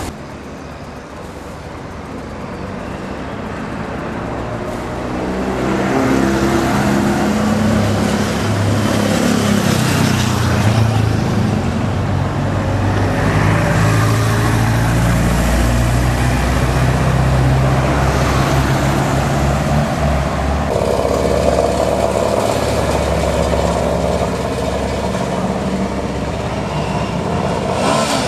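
Single-cylinder motorcycle engine running, growing louder over the first six seconds as it comes closer, then holding steady with its pitch shifting.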